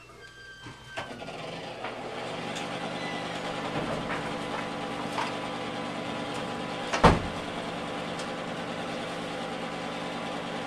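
A motor starts about a second in and runs with a steady hum, with one sharp knock about seven seconds in.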